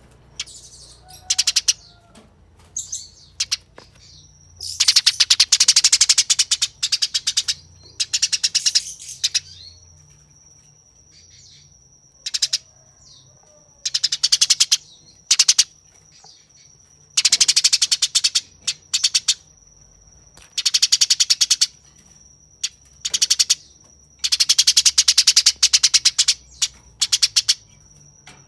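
Eurasian tree sparrow giving harsh, very rapid chattering fighting calls in bursts of one to two seconds with short pauses between. A thin steady high tone sits under it from about four seconds in.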